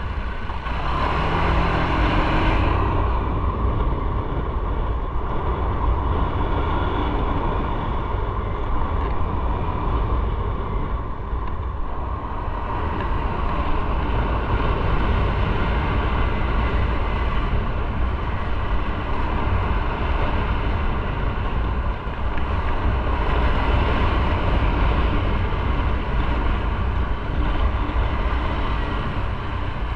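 Motorcycle engine running while riding, with heavy wind rumble on the microphone. Its pitch rises briefly in the first few seconds, then holds steady.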